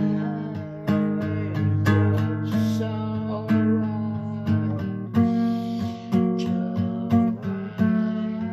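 Acoustic guitar music: chords strummed and plucked in a steady rhythm.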